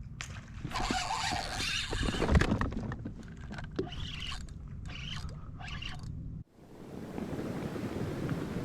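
Wind and water noise on a small fishing boat, with splashing and knocks in the first part. An abrupt cut a little after halfway gives way to a steady rush of wind and waves.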